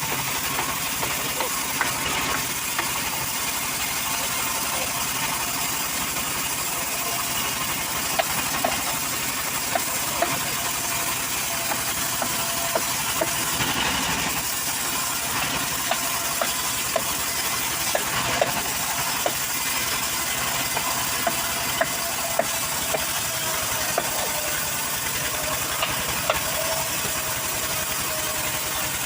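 A saw's engine running steadily with a hiss, with sharp ticks every second or so through the second half.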